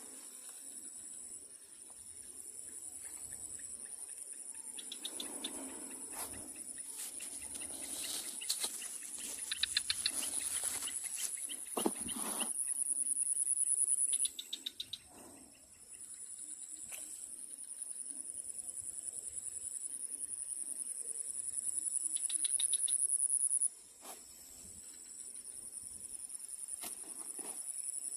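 Insects trilling in a steady high chorus that builds louder and then stops abruptly, once about halfway through and again near the end. A few clicks and a single knock sound in the middle.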